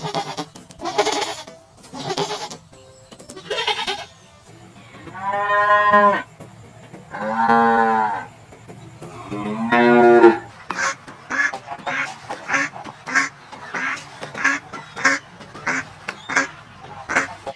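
Goat bleating: three long, wavering bleats in the middle, set among many shorter, rougher animal calls that come quickly near the end.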